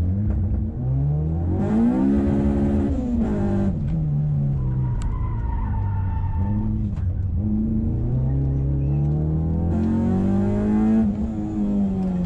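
A Nissan SR20VE 2.0-litre four-cylinder engine, heard from inside the car, is being driven hard. The revs climb steeply twice, with a harsh high intake and exhaust note at the top each time, and drop back in between. A brief high squeal comes about midway.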